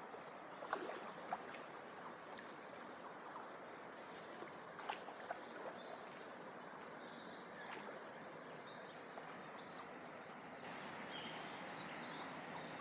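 Quiet river ambience heard from a canoe: a steady low hiss of flowing water with a few soft clicks. From about ten seconds in, faint high chirping from birds or insects joins in.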